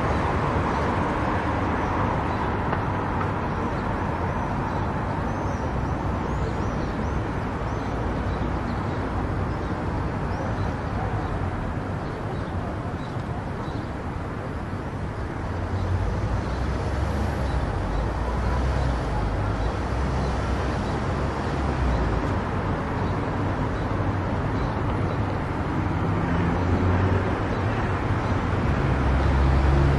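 Steady road and tyre noise from a car cruising on a highway. A low rumble grows louder about halfway through and again near the end.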